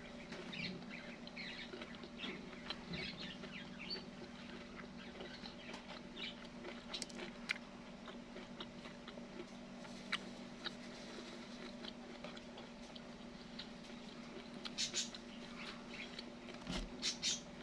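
Faint chewing of crispy breaded fried food: a scatter of soft crunches and small clicks, over a steady low hum.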